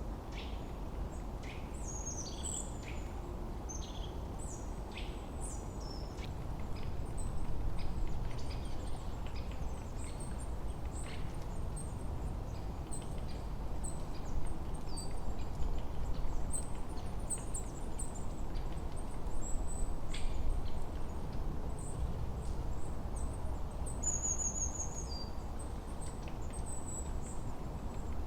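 Several small songbirds chirping and calling in short, high notes, one giving a quick high trill twice near the end, over a steady low rush of wind through a forest.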